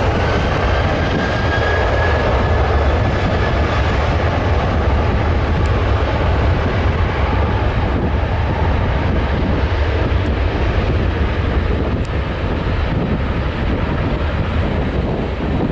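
Airliner engines at take-off power: a loud, steady roar with a deep rumble and a faint high whine that fades over the first few seconds.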